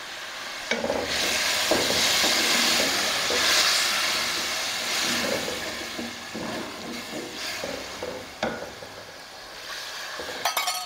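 Yogurt and masala sizzling and steaming in a hot metal kadhai as they are stirred briskly with a wooden spatula; the sizzle swells about a second in and dies down after about six seconds. Near the end a steel cup clinks against the pan as water is poured in.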